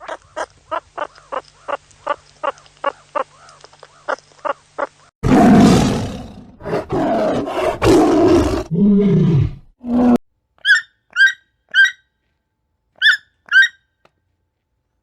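A series of animal calls: a quick run of short repeated calls, about three a second, then a loud big-cat roar lasting about five seconds, then a few short high chirps near the end.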